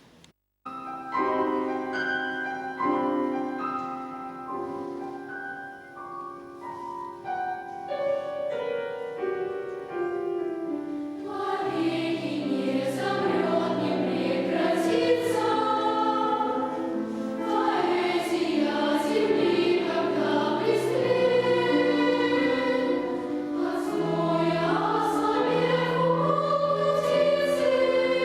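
Children's choir singing with piano accompaniment. A lighter passage of held stepwise notes opens; the sound grows fuller and louder about a third of the way in.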